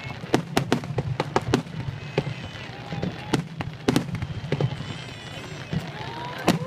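Fireworks display: a rapid run of sharp bangs and crackles in the first couple of seconds, then sparser, louder booms, one of the loudest about four seconds in. Spectators' voices call out between the bursts.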